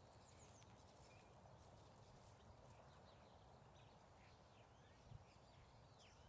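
Near silence outdoors, with faint, scattered bird chirps and a single soft knock about five seconds in.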